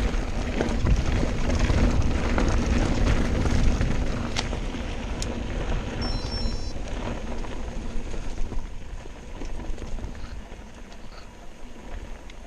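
Mountain bike riding down a rough trail, with tyre and rattle noise over the ground and a low rumble. It grows quieter from about halfway through.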